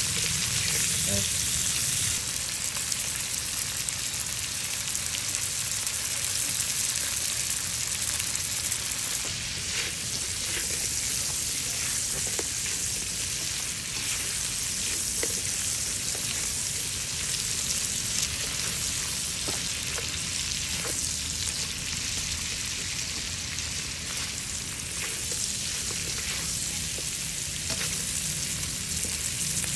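Whole shrimp sizzling steadily with garlic in a hot wok as they cook until they turn orange, with a few faint clicks from the stirring utensil.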